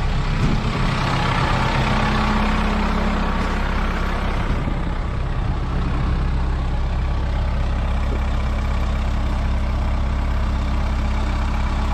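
Kubota M7060 tractor's diesel engine running steadily, with a hiss of noise over it that is strongest in the first half and then fades.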